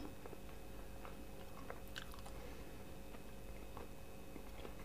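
Faint, close-miked chewing with a few soft, scattered mouth clicks.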